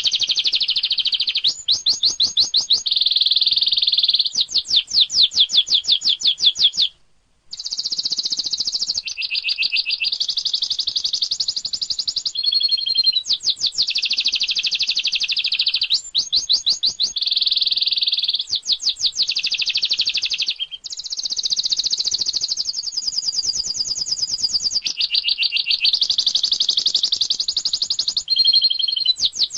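Domestic canary singing a continuous, high-pitched song of rapid trills and rolling phrases that change every second or two, with a brief pause about seven seconds in.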